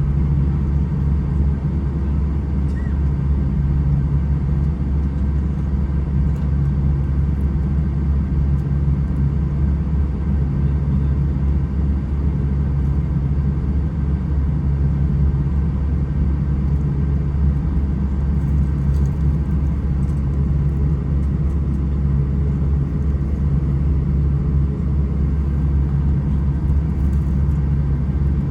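Steady low rumble of an Airbus A320 in flight or on the ground, engines and airflow heard as one even drone with a slow, regular pulsing in the hum.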